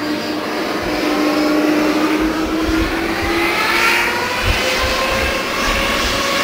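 Boeing 777-200's jet engines running, with a whine of several tones slowly rising in pitch over the jet noise, and uneven low rumbling pulses underneath.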